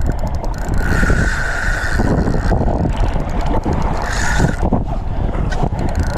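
Wind buffeting the action-camera microphone and choppy water washing around a kayak, a dense, steady rush that is heaviest in the low end.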